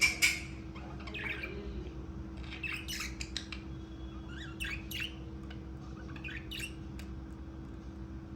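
Budgerigars calling in short squawks and chirps, in scattered clusters a second or two apart, loudest right at the start, over a steady low hum.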